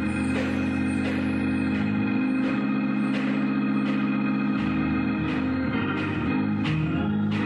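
Church organ music: held chords over a bass line that shifts note every second or two, with a light percussive tick about every two-thirds of a second.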